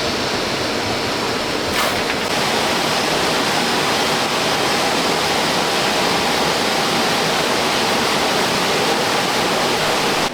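Steady rushing of water, even and unbroken, with one short click about two seconds in.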